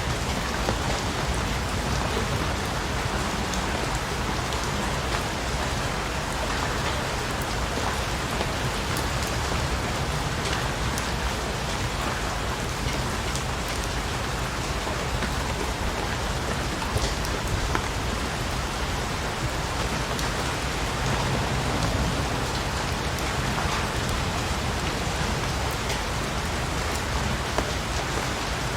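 Steady rain falling on a surface, an even hiss with scattered individual drops pattering and a low rumble underneath.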